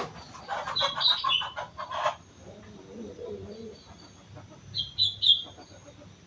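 Sooty-headed bulbul calling: a burst of rapid, harsh chattering notes in the first two seconds, then three short high notes about five seconds in, with a quieter, lower warbling sound in between.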